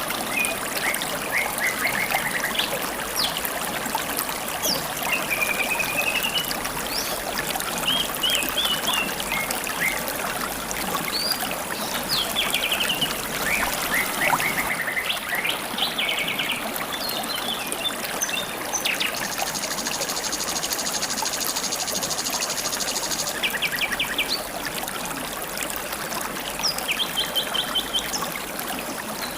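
A river babbling steadily, with assorted wild birds chirping and trilling over it. A fast, even, high rattling trill runs for a few seconds just past the middle.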